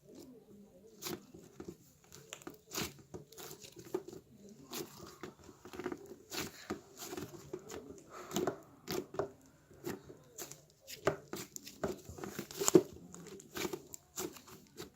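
Slime being squeezed and stretched by hand, making irregular small crackling pops and squishes, with one sharper pop near the end.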